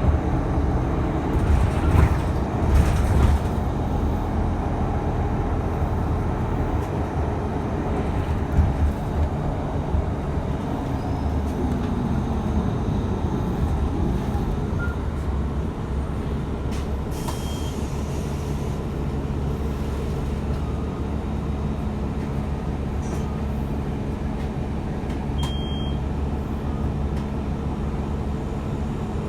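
Steady low rumble of a moving transit vehicle heard from inside, with a few knocks in the first few seconds and a short hiss partway through.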